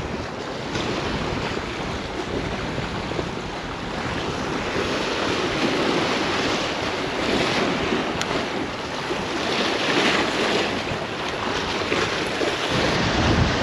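Strong wind blowing across the microphone, a continuous rushing that swells in gusts, with choppy water splashing.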